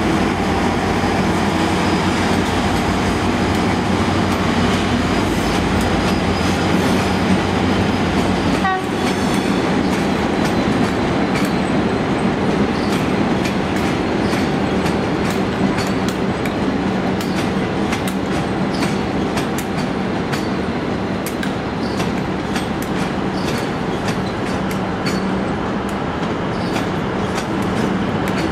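A train moving through a station: a steady low hum for the first stretch, changing abruptly near nine seconds in, then a long run of irregular clicks of wheels over rail joints and points.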